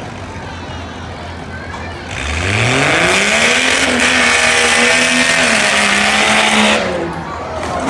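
Stock-class rough truck's engine idling, then revving up hard about two seconds in and held at high revs for around four seconds before easing off near the end.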